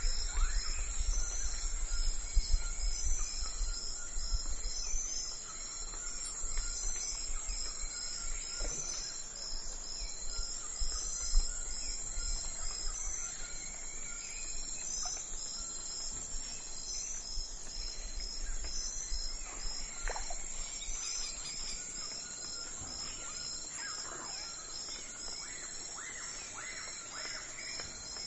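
Early-morning outdoor ambience: insects trilling steadily and high with a regular pulsing, and birds chirping now and then with short falling calls, more of them near the end. A low rumble sits under the first few seconds.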